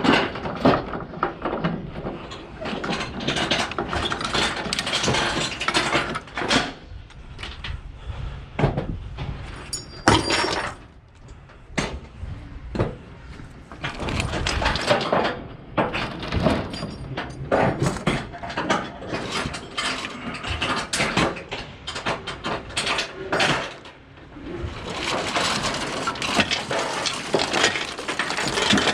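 Hands-on work securing a load on a flatbed trailer: irregular metal clicks, clanks and ratcheting mixed with rustling and scraping, with a short lull about eleven seconds in and another near twenty-four seconds.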